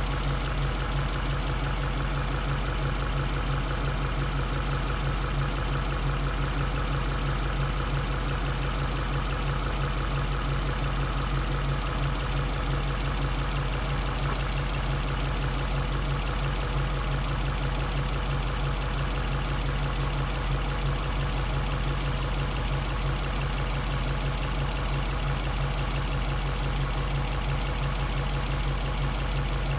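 Subaru EJ207 turbocharged 2.0-litre flat-four engine idling steadily at operating temperature, with the thermostat open. The owner suspects a head gasket leak or a crack letting combustion gases into the cooling system.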